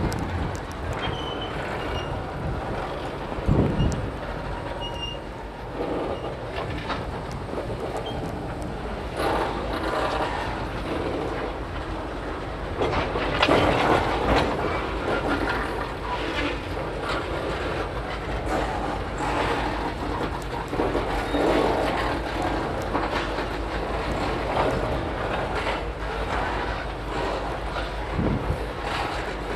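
Freight train of tank cars being shoved backward by diesel locomotives, the cars clanking and banging as coupler slack runs in and out over the steady low rumble of the engines. A sharp bang comes about three and a half seconds in, with louder runs of clanking later on.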